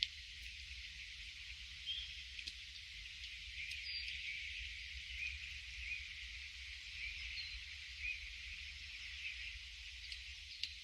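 Many small birds chirping and twittering together in a dense, steady chorus of short high notes, over a faint low rumble of wind on the microphone.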